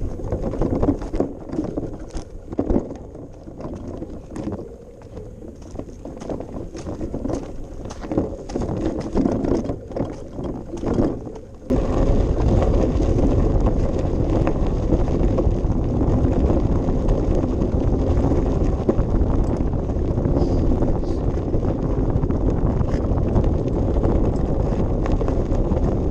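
Bicycle ride picked up by a handlebar-mounted action camera: uneven rumble of tyres on the path with scattered clicks and rattles. About twelve seconds in, the sound changes abruptly to a louder, steady rush of wind noise on the microphone.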